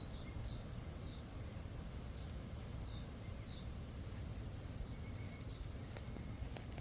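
Outdoor ambience: a steady low rumble with faint, short, high bird chirps every second or so.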